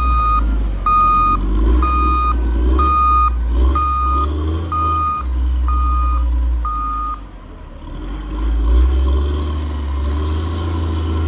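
Reversing alarm of a large snow-clearing machine beeping about once a second, each beep about half a second long, over the machine's deep engine rumble; the beeping stops about seven seconds in.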